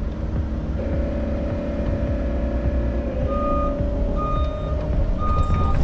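Tracked heavy machine's diesel engine running as it travels, with a steady whine coming in about a second in. From about three seconds in, its travel alarm beeps about once a second.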